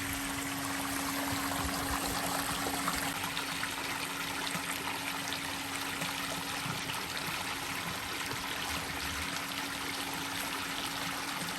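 Small electric pool-spa pump running with a steady hum, circulating water that runs and trickles back into the spa.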